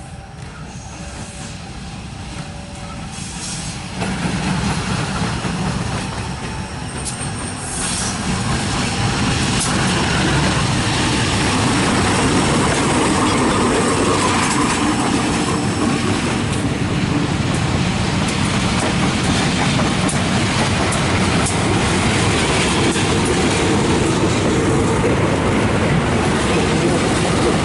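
A train running along the track close by, growing louder in steps over the first eight seconds and then holding steady as it passes.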